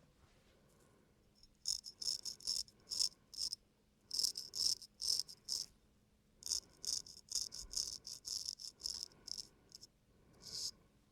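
Razor shaving stubble on a man's face: short, crisp scraping strokes, two to three a second, in several runs with brief pauses between them.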